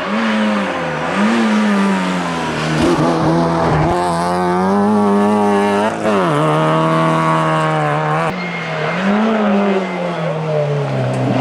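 Rally car engine driven hard on a tarmac stage, its pitch rising under throttle and dropping sharply at gear changes and lifts several times.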